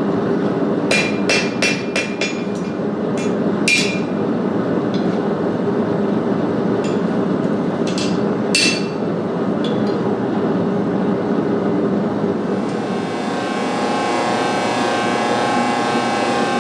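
Blacksmith's hammer striking metal at the anvil with sharp, ringing blows: a quick run of strikes about a second in, then a few scattered blows up to about nine seconds, over a steady rushing noise. Near the end a steady hum with a tone sets in.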